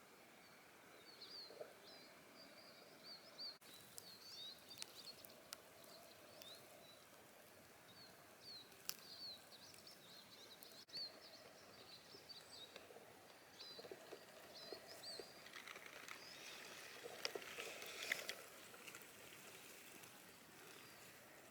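Small birds calling quietly in woodland, a steady string of short, thin, high chirps, with a few faint clicks and a brief rustle near the end.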